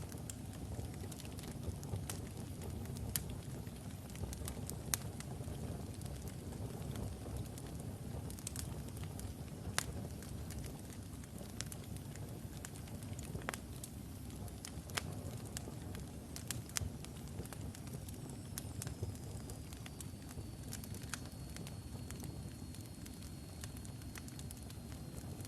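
Logs burning in a fireplace: a steady low rumble of flame with irregular sharp crackles and pops from the wood.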